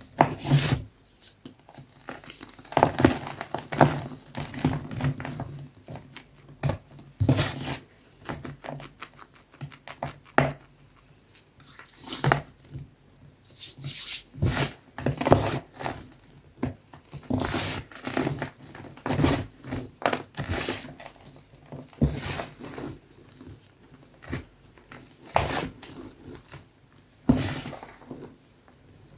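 Soft gym chalk being crushed, crunching and crumbling in irregular clusters of sharp crackles with short quieter pauses between them.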